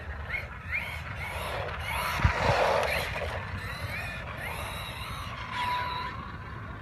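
Losi Baja Rey 1/10 RC desert truck being driven, its electric motor whining up in short rising sweeps on bursts of throttle. About two seconds in the tyres throw up a rush of gritty noise, with a couple of sharp thumps.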